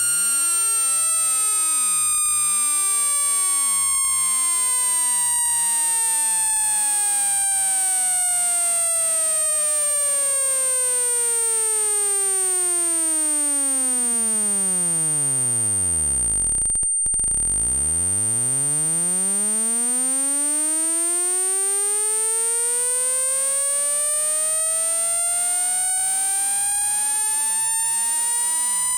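Electronic speaker-cleaning tone, played to vibrate water and dust out of a phone's speaker grille. A pure tone glides slowly down in pitch to a deep hum, cuts out for a moment about two-thirds of the way through, then glides back up again. A steady high-pitched whine and many faint crossing sweeping tones run underneath.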